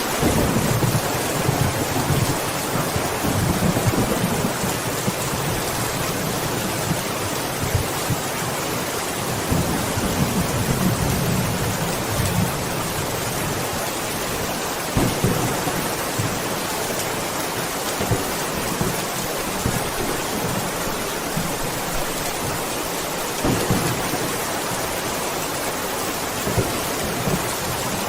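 Steady heavy rain hissing, with rolling thunder rumbling underneath. The rumble is strongest in the first few seconds and again around ten seconds in.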